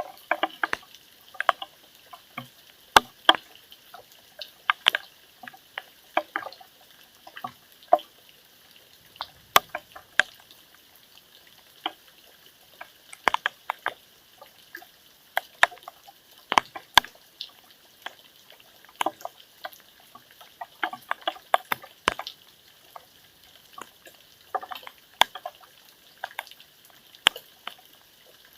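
Raindrops falling irregularly onto a hard surface: sharp separate taps, a few a second, some louder than others, over a faint hiss.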